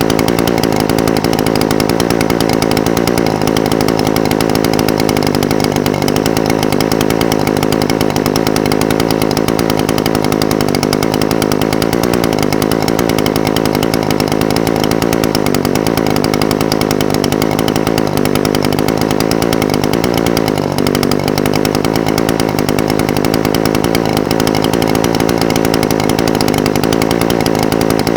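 Echo SRM-420TES brush cutter's two-stroke engine idling steadily, its speed wavering slightly, with a brief stumble about twenty seconds in.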